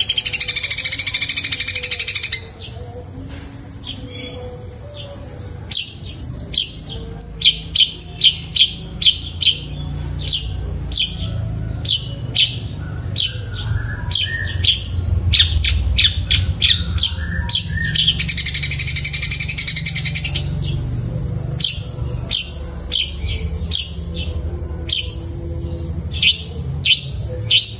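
Long-tailed shrike singing a copy of Eurasian tree sparrows' fighting chatter: a loud harsh rasp at the start and again about two-thirds through, between long runs of short sharp chirps, over a low steady hum.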